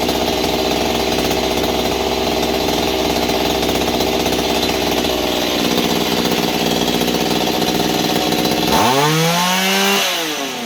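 Mantis mini tiller's small engine running steadily after its carburetor rebuild. About nine seconds in it revs up sharply, then winds back down.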